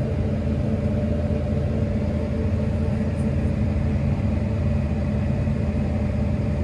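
Steady drone of a running vehicle engine, a constant low hum with several steady tones, not changing in speed.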